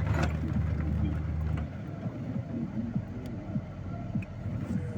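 Vehicle engine running with a low steady hum that drops away about a third of the way in, leaving a jumble of short squeaks and knocks.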